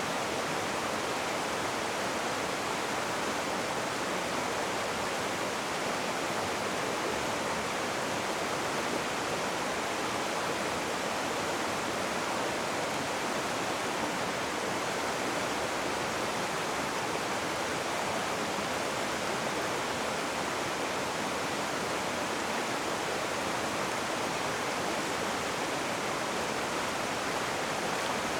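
Rushing river water, a steady unbroken wash of noise with no single splashes standing out.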